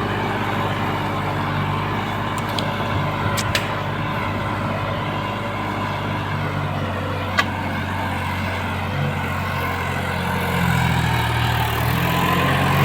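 A New Holland 6510 tractor's diesel engine runs steadily under load, pulling a Lemken subsoiler set deep in the soil. A few sharp clicks sound in the first half. Past the middle, the engine note shifts and grows slightly louder.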